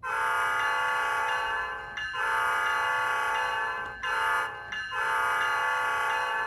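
Multi-chime locomotive air horn from an ESU LokSound 5 sound decoder, played through an HO-scale model locomotive's speaker. It sounds the grade-crossing pattern: two long blasts, a short one, then a long one, each a steady chord of several tones.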